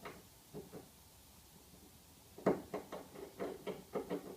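A run of quick, irregular knocks or thumps starting about two and a half seconds in, after a few faint clicks: a recurring noise that the listener takes to be coming from her neighbors.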